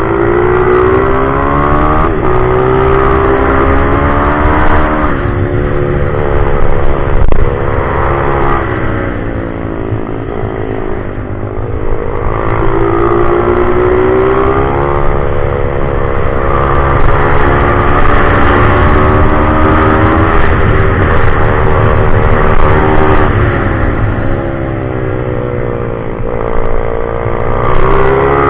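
A pit bike's small single-cylinder four-stroke engine is ridden hard. It revs up through the gears, then drops back each time the throttle closes, rising and falling in pitch several times.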